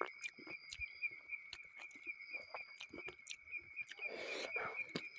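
Close-up eating sounds of a man eating rice and curry with his fingers: chewing and short wet mouth clicks. Behind them, crickets chirp in a steady pulsing trill. A short rushing noise comes about four seconds in.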